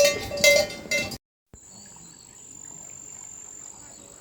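Metal animal bells clanking rapidly with a clear ringing tone, cutting off abruptly about a second in. Then quiet ambience with a steady, high-pitched insect drone.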